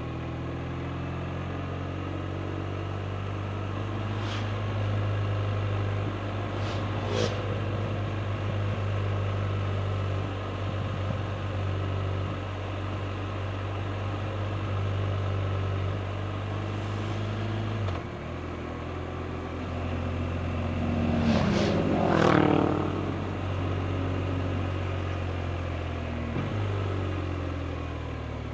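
BMW R 1250 RT's 1254 cc boxer twin running steadily under way. The engine note drops sharply about 18 seconds in. There are brief louder swells of sound around 4 to 7 seconds and again around 21 to 23 seconds.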